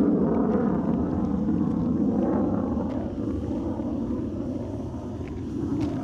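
Steady low engine-like rumble, slowly fading, with a few faint clicks.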